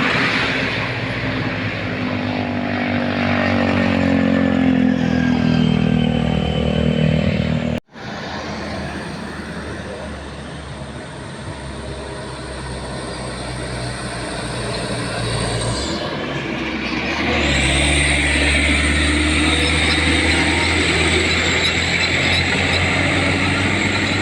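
Old truck engine labouring under load on a steep uphill climb, its pitch rising over the first several seconds. The sound cuts off abruptly about eight seconds in, then engine running picks up again and grows louder later on.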